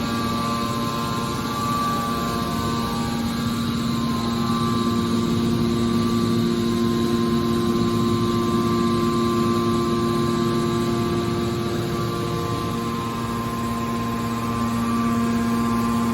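Scrap metal baler's hydraulic power unit running with a steady hum and whine. Its tone shifts briefly a little after the middle.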